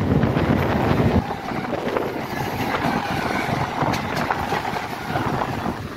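Mumbai suburban electric local train running, with wheel-on-rail clatter and wind buffeting the microphone. A heavy low rumble stops abruptly about a second in.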